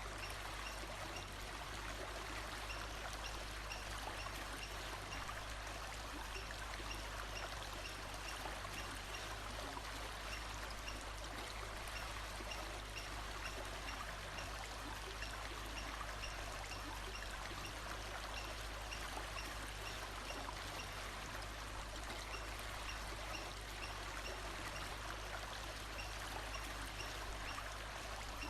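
Steady rushing and trickling of a flowing stream, with a faint high chirp repeating at an even pace in the background.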